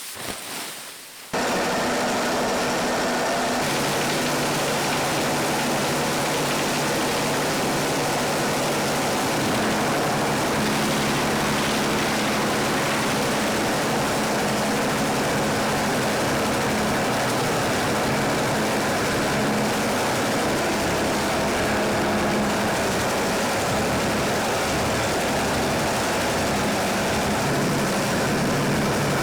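Industrial machinery running steadily: a constant loud mechanical noise with a low hum. It cuts in abruptly about a second in.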